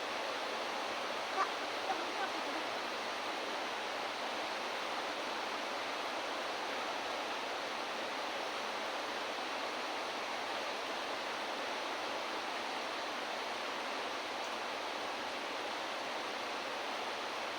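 Steady rain falling, an even hiss, with a couple of faint clicks about a second and a half in.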